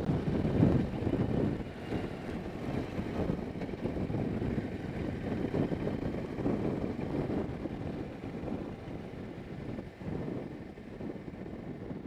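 Gusty wind rumbling on the microphone, a low, uneven rush that swells and dips every second or so.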